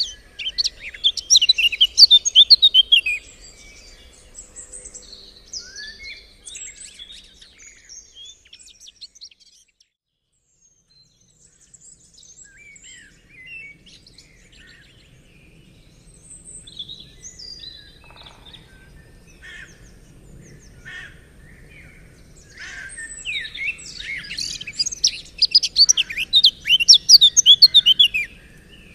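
Birdsong: a loud, rapid twittering song in the first few seconds and again near the end, with scattered quieter chirps in between and a brief lull partway through.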